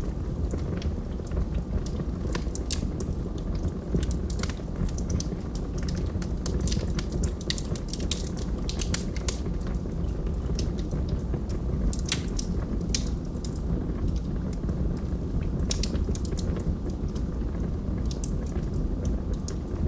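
Logs burning in a fireplace: a steady low rumble of flame with frequent sharp crackles and pops, at irregular intervals.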